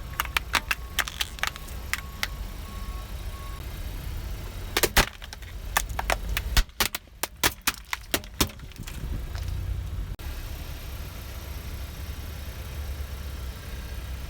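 A car's tyre rolling over and crushing brittle objects, giving a quick run of sharp cracks and snaps in the first two seconds and another burst of cracking in the middle, over the low rumble of the car's engine.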